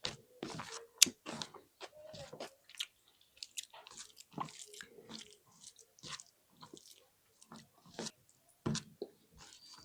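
A person chewing and eating spicy egg with rice close to the microphone, with irregular short wet mouth clicks; the sharpest click comes about a second in.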